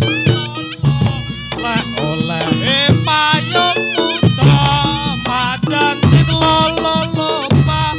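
Live Reog Ponorogo music accompanying a jathilan dance: a reedy slompret shawm plays a wavering, ornamented melody over drums and gong-like beats.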